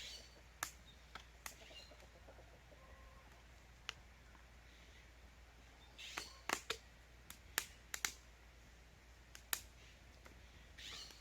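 Irregular light clicks and taps, bunched in a quick flurry about two-thirds of the way through, with a couple of brief rustles.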